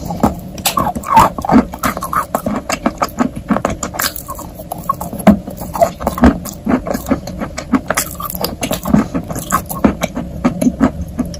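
Rapid, irregular small clicks and taps, several a second, unevenly spaced.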